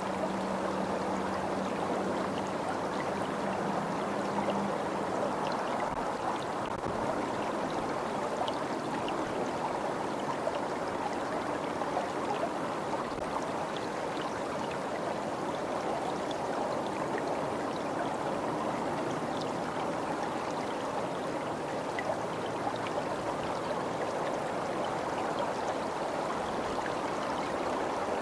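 Steady rush of running water, a stream flowing. A low steady hum sits under it for the first five seconds or so.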